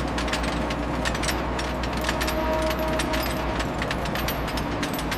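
Sawmill machinery running with a low steady drone and many clicks and clanks on top, starting abruptly.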